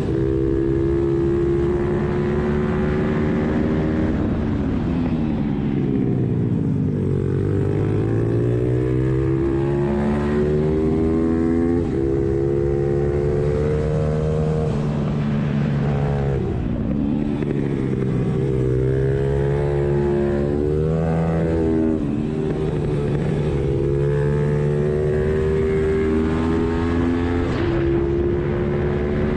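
Suzuki Hayabusa inline-four engine in a pit bike being ridden hard, its pitch climbing under throttle and dropping off several times, most clearly about five, sixteen and twenty-one seconds in, as the rider accelerates and backs off.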